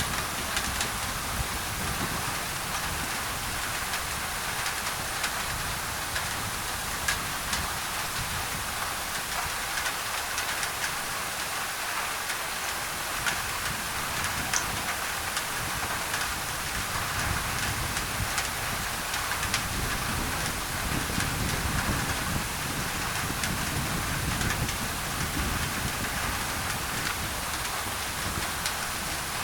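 Rain on a thin tin roof mixed with white noise: a steady, dense hiss with scattered sharp drop ticks. A low rumble comes and goes underneath.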